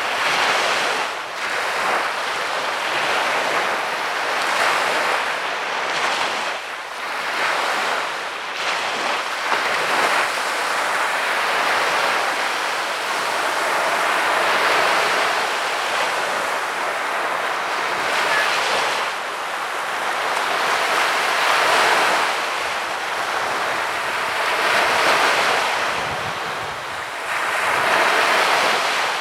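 Small waves breaking and washing up a sandy beach, swelling and ebbing every few seconds, with some wind on the microphone.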